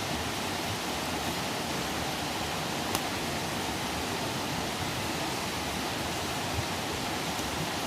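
Campfire burning with a steady rushing hiss, broken by a few sharp pops of crackling wood, the clearest about three seconds in.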